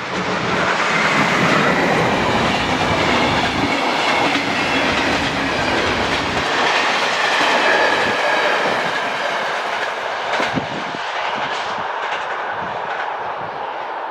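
Passenger train passing close by over the level crossing, a loud steady rush of wheels on rail with clickety-clack over the rail joints. A few sharp clacks come about ten seconds in, and the noise eases slightly near the end.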